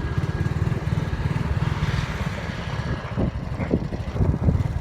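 Motor vehicle engine running while driving, a steady rapid low pulsing.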